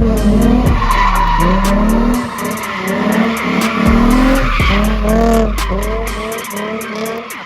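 A drift car sliding with its tires squealing, its engine pitch rising and falling over and over as the revs swing up and down through the drift.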